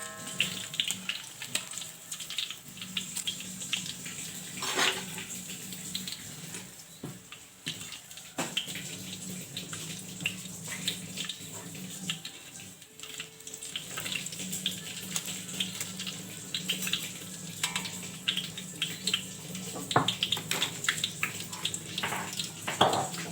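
Batter-coated pineapple pieces deep-frying in hot oil in a wok, a steady dense crackle. A few louder clinks from a utensil in the pan come about 5 and 20 seconds in.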